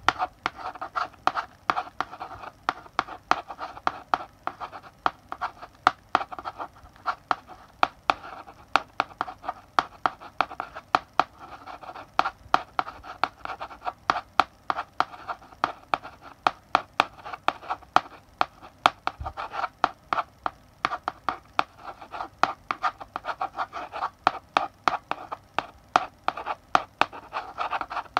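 Chalk writing on a blackboard: quick taps and scratchy strokes, several a second, in runs with brief pauses between words.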